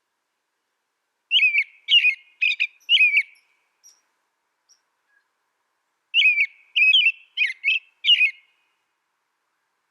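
A songbird singing two short phrases of four or five quick gliding notes each, the first about a second in and the second about six seconds in.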